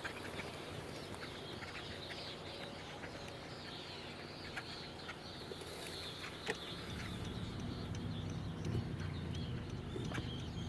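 A large flock of black birds calling all at once, a constant din of overlapping short chirps, squeaks and clicks. About two-thirds of the way in, the low steady hum of a car engine comes in underneath.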